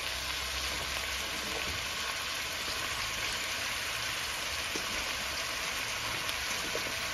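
Beef, onions and peppers frying in hot oil in a metal pot, with diced raw squash just added on top: a steady sizzle with faint crackles.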